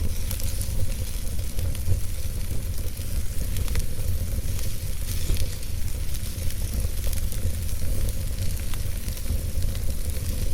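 Wood logs burning in a fireplace: scattered sharp crackles and pops over a steady hiss and a low rumble of the flames.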